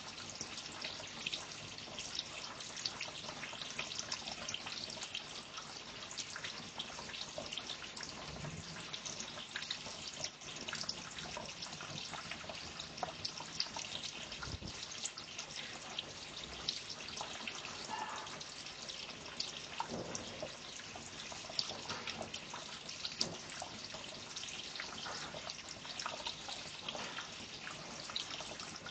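Water trickling and dripping continuously, a dense run of small drips.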